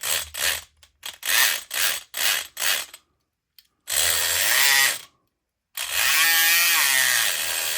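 SouthOrd E500XT electric lock pick gun buzzing: about seven short bursts in the first three seconds, a one-second run, then a longer run whose pitch wavers up and down as the motor is held on.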